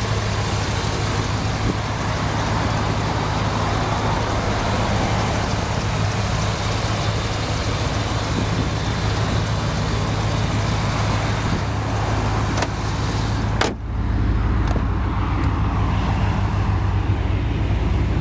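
1991 Chevrolet Silverado's 5.7 litre V8 idling steadily, with a short break about fourteen seconds in, after which the hiss above it fades.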